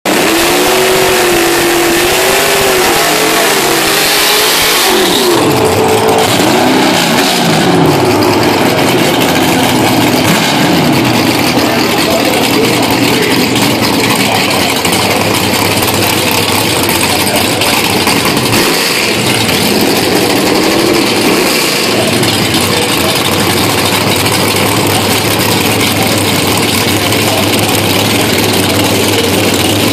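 2012 Chevrolet Camaro drag car's engine revving hard in repeated rising and falling blips, with a brief hiss about four to five seconds in. It then settles to a steady low idle, blipped again a couple of times around twenty seconds in, as the car rolls up to the starting line.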